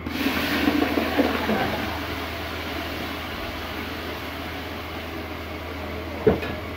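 Tomato paste poured into hot ghee and fried onions in a large cooking pot, sizzling sharply as it hits the fat and then settling into a steady sizzle. A single sharp knock near the end.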